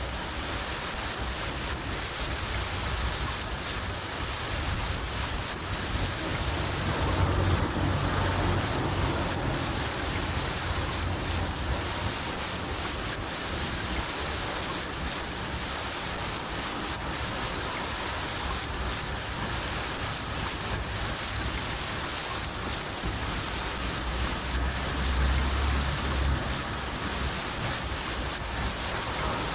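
Crickets chirping in a steady, regular high-pitched pulse, several chirps a second, over the hiss of steady rain. Distant thunder rumbles low twice, about a quarter of the way in and again near the end.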